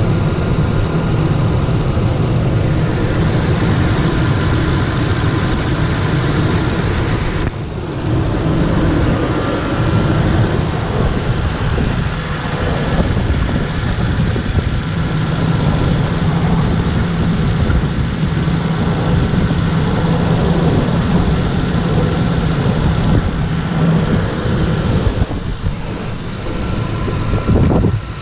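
Engine of a 2005 Ford F-150 FX4 pickup running steadily, with a brief sharp dip in level about a quarter of the way through.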